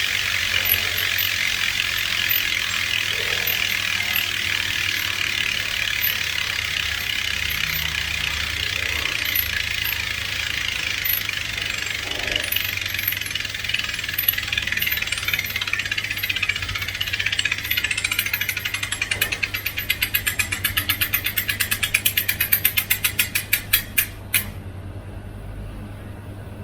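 Freehub of an MXL Mach 22-inch (451) bicycle wheel coasting, its pawls making a loud, fast ratcheting buzz. As the wheel slows the buzz breaks into separate clicks that get further apart and stop about two seconds before the end.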